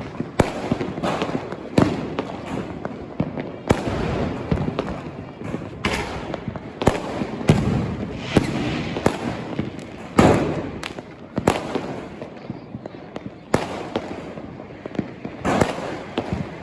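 Fireworks going off: a long series of sharp bangs at irregular intervals, about one every second or so, with a noisy haze between them.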